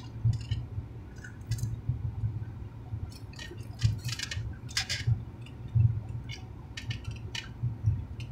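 Close-up chewing and mouth noises of people eating a Mexican torta sandwich: irregular clicks and smacks as they bite and chew.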